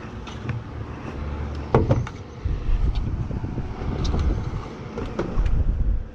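An uneven low rumble with a few sharp knocks and clatter, the loudest knock about two seconds in.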